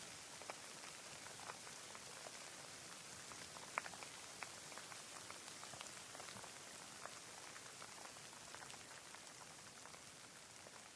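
Soft steady rain, a fine hiss with scattered individual drops ticking, one sharper drop about four seconds in.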